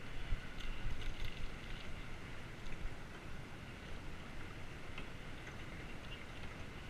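Wind buffeting the GoPro's microphone during a bicycle ride, a steady low rumble that swells and dips unevenly, with a few faint clicks and rattles.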